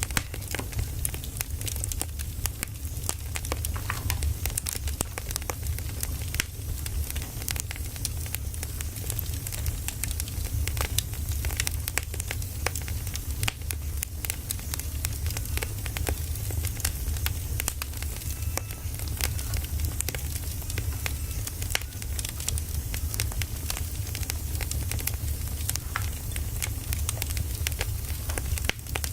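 Firewood logs burning, crackling with a steady stream of irregular sharp pops and snaps over a low, even rumble of the fire.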